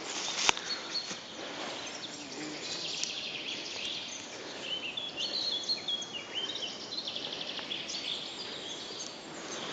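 Forest birds singing: a run of short, high notes about halfway through over a steady background hiss, with one sharp click about half a second in.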